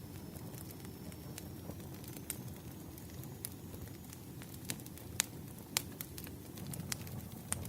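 Wood campfire burning: a low steady rush of flame with scattered sharp pops and crackles from the burning logs, the two loudest snaps coming a little after five seconds in and just before six.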